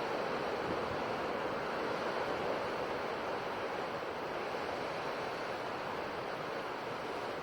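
Ocean surf washing on the shore in a steady, continuous rush, with no separate breaks standing out.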